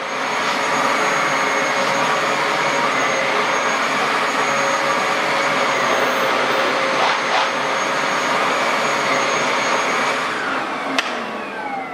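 Hoover Dual Power Pro carpet washer running steadily, with a high whine over the motor and suction noise. Near the end there is a click, and the motor winds down with a falling pitch.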